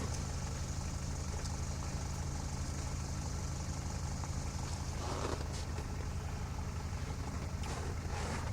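Off-road vehicle engine idling steadily with a low, even hum.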